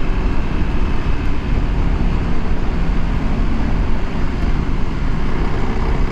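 Kawasaki KLX300 single-cylinder dirt bike running at a steady pace while being ridden, under a heavy, steady rush of wind on the microphone.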